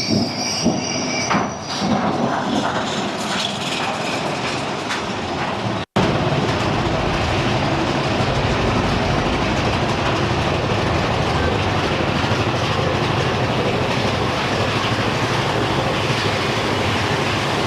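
Mine-train roller coaster running on its track. Its wheels clatter and squeal at first. After a brief cut-out about six seconds in, the ride goes on as a steady, loud rush of running noise.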